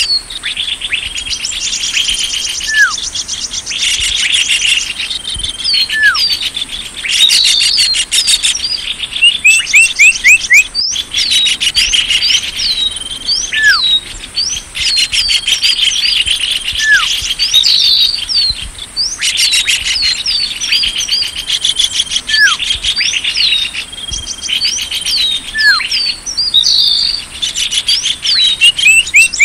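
Small birds' lure calls (suara pikat): bursts of rapid, high chirping trills and many quick down-slurred whistles, repeating over and over with a thin steady high tone behind them.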